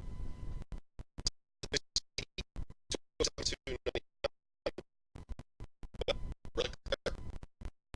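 Broken-up, stuttering audio: short fragments of sound chopped apart by repeated dropouts to dead silence, the sign of a failing audio stream.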